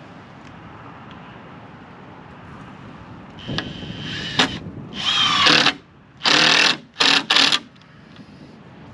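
Power drill driving a screw into wood in a few short trigger bursts, the motor pitch rising and falling with each squeeze, the last bursts short and quick as the screw seats.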